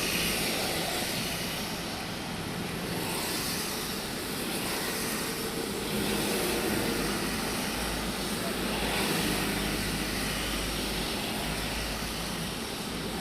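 Steady hiss and rumble of vehicles on a rain-wet road, swelling slightly a couple of times as traffic passes.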